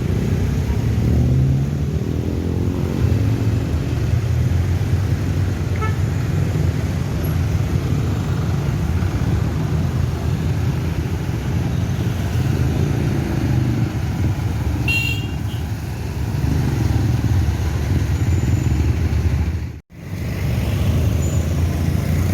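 Road traffic: vehicle engines running with a steady low rumble, and a brief horn toot about fifteen seconds in. The sound drops out abruptly for a moment near the end.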